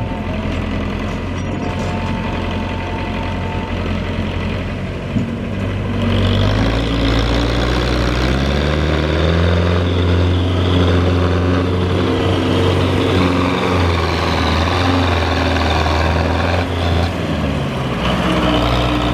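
Tractor engine working under load, hauling a loaded trolley. It revs up about six seconds in, its pitch rising and wavering, and eases off briefly near the end.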